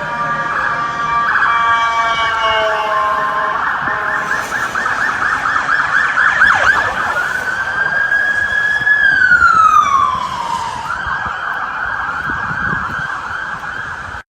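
Police car sirens sounding: sweeping wails that fall in pitch, a rapid yelp about halfway through, then a slow rise and fall in pitch and a steady high tone, cut off abruptly at the end.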